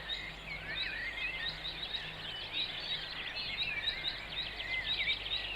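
Several small birds chirping and singing over a faint, steady background noise.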